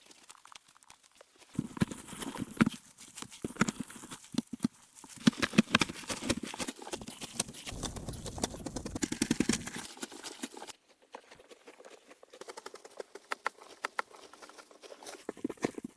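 A rapid, irregular series of knocks and clicks, heavy from about one and a half seconds in, then much lighter from about eleven seconds in.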